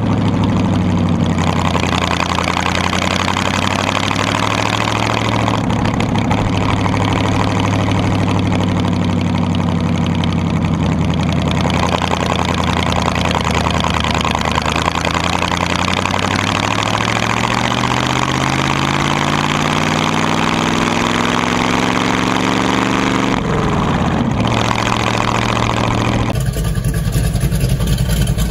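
Ford flathead V8 with twin carburettors running as the hot rod drives, its note climbing steadily for several seconds as it speeds up, then dropping sharply about two-thirds of the way through. Near the end it cuts abruptly to another Ford flathead V8 running steadily.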